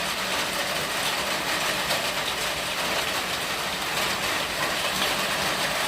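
Heavy rain falling steadily on a patio roof, a dense even hiss with many fine drop impacts.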